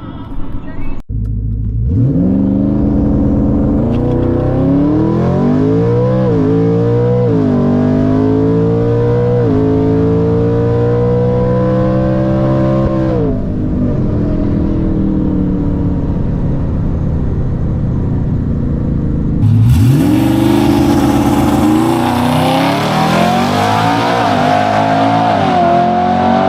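Twin-turbo Ford F150 truck's engine at full throttle on a drag-strip pass, its pitch climbing and dropping back at each of several upshifts, then held high before it falls away about 13 s in. About 20 s in, a louder stretch of hard acceleration begins with the pitch climbing again.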